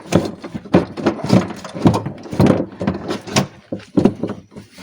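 Repeated irregular knocks and clunks of a metal scissor-type car window regulator being worked and jostled against the inside of the door to free it through the access opening, its motor end stuck.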